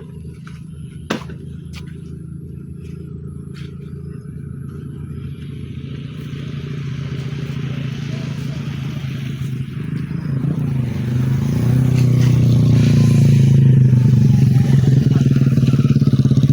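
Truck diesel engine running and drawing closer, growing steadily louder through the second half. A single sharp click about a second in.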